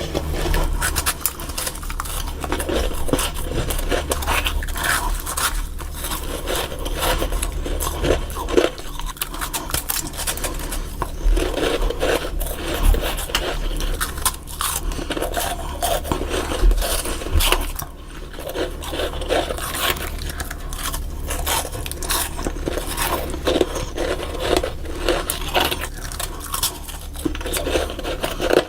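Freezer frost being bitten and chewed close to the microphone: a dense, uneven run of crunching and scraping, over a low steady hum.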